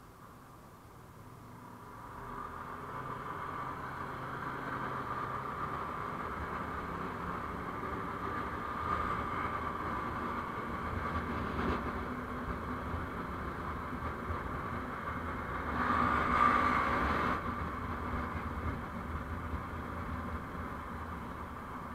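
Vehicle running on the road, engine and road noise as picked up by an on-board camera; it swells up about two seconds in and holds steady, with a louder passage about three-quarters of the way through.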